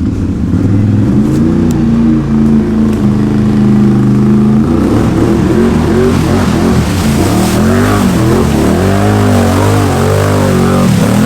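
Can-Am Outlander 850 XMR's V-twin engine through an aftermarket MBRP performance exhaust, first running at steady revs, then from about five seconds in revving up and down over and over under the throttle.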